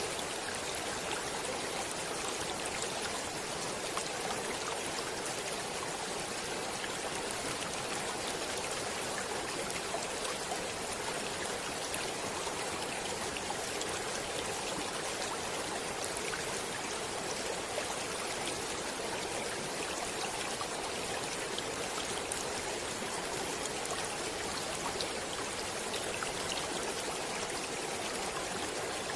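Stream water flowing steadily over rocks, an even rush with small splashes and droplets throughout.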